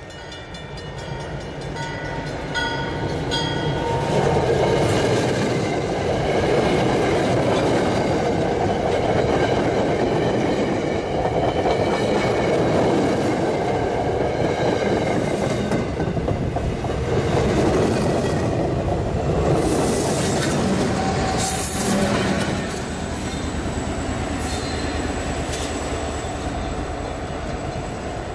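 MBTA commuter train passing close by: a rumble builds as it approaches, then the coaches roll past with a loud steady running noise and occasional sharp clicks of wheels over rail joints. The noise drops back after about 22 seconds.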